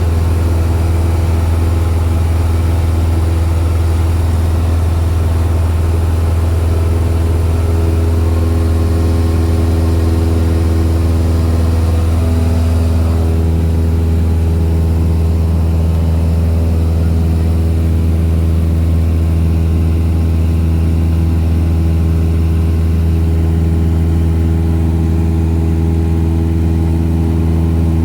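Cessna 172's piston engine and propeller droning steadily, as heard in the cabin, with a slight change in the engine note about halfway through.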